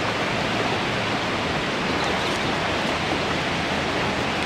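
Loud, steady rush of falling water from the Dzhuryn waterfall.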